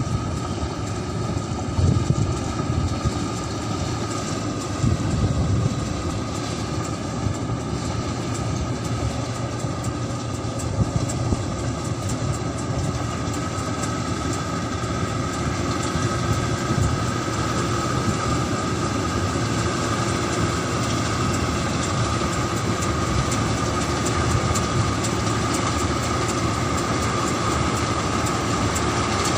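Rice combine harvester running steadily, a continuous engine drone with a steady high whine, and a few low thumps in the first several seconds.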